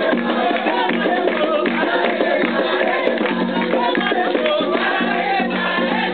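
Voices singing together over percussion and a shaken rattle, a ceremonial chant for the orixá Xangô.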